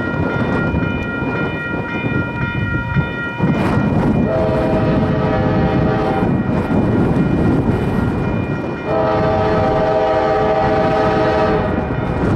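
Freight train's lead locomotive, a GE AC44C6M, blowing its horn in long blasts for a grade crossing, over the rumble of the train on the rails.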